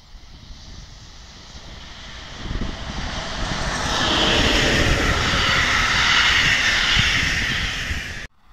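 Electric locomotive and passenger coaches passing: a rumble and hiss of wheels on rail that grows louder as the train approaches and is loudest about four to seven seconds in. The sound cuts off suddenly just before the end.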